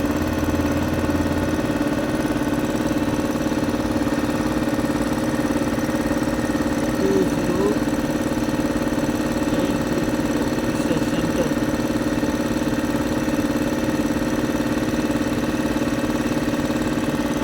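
Wheel loader's diesel engine idling steadily.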